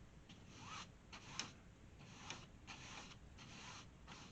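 Paintbrush scrubbing paint onto canvas in short, faint, scratchy strokes, roughly two a second, while blending the colours.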